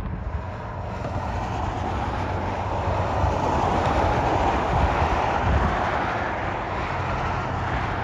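Passing freight train with mid-train diesel locomotives working as distributed power units: a steady rumble of engines and wheels on rail that swells a little in the middle and eases toward the end.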